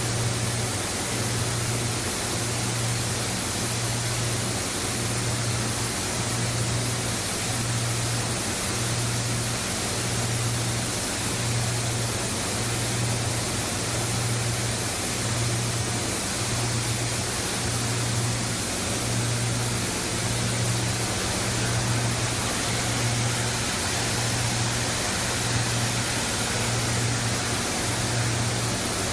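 PE/PP plastic washing line running: a steady rushing machine-and-water noise, with a low hum that pulses about once every second and a half.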